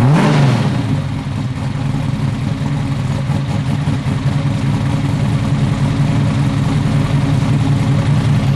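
Oldsmobile 434 stroker V8 breathing through a 2 1/2" stainless Pypes exhaust, given a quick blip of the throttle right at the start and then idling steadily.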